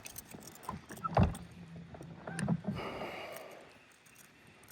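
Handling noise while reeling in a small fish from a boat: scattered clicks and rattles, with a louder knock about a second in and a brief low hum in the middle.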